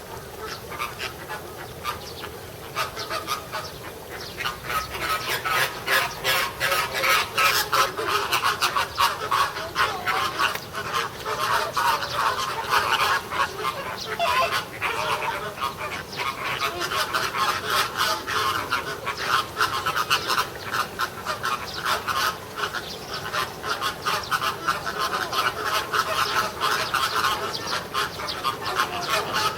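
A flock of American flamingos honking in rapid, overlapping calls, a noisy squabble among the birds. The calling grows louder and busier about five seconds in.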